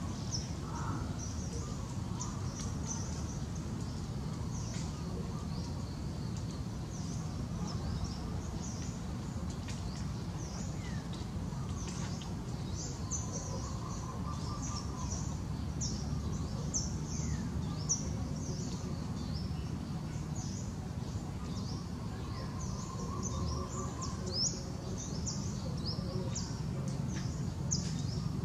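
Outdoor ambience: a steady low background rumble with many short, high-pitched bird chirps scattered throughout.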